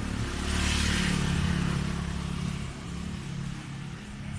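Single-cylinder engine of a Honda CB150R running through an aftermarket Tiger Revo exhaust. It gets louder for about two seconds from half a second in, then settles back to a steady run.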